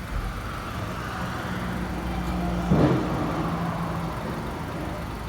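Car engine idling with a steady low hum, and a short sound falling in pitch about halfway through.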